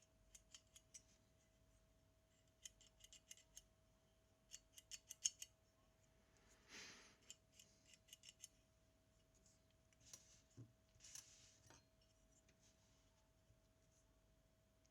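Small, faint metallic clicks in quick clusters, three runs in the first half, with a few brief scrapes, from tools and small parts being handled in a Zenit TTL camera repair. A faint steady hum runs underneath.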